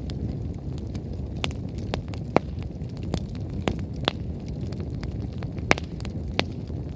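Wood bonfire burning: a steady low rush of flame with irregular sharp crackles and pops from the firewood, the loudest about two and a half seconds and near six seconds in.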